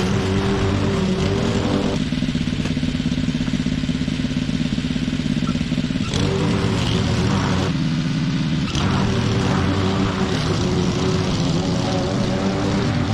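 Petrol lawn mower engine running steadily. Its higher hiss drops away for a few seconds twice, about two seconds in and again around eight seconds, while the engine note carries on underneath.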